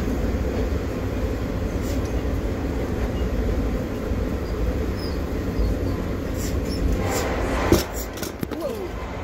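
Steady low rumble of a moving passenger train heard from inside the car. Near the end come a few light clicks and one sharp knock.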